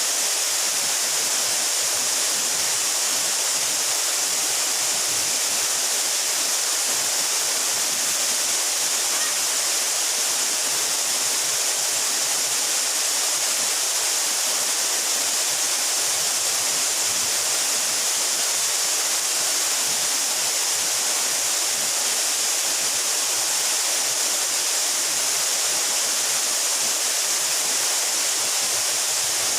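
Mountain waterfall about 12 metres high: a steady, unbroken rush of falling water, heavy in the high hiss.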